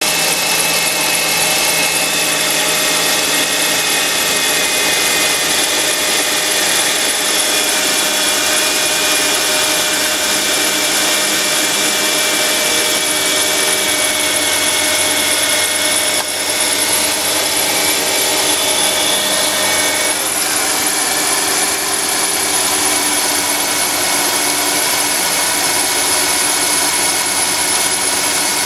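Mercedes R350 engine running steadily, with several steady whining tones over a constant rush of mechanical noise; the tones shift slightly about two-thirds of the way through. This is the noise the owner traces to the front of the engine.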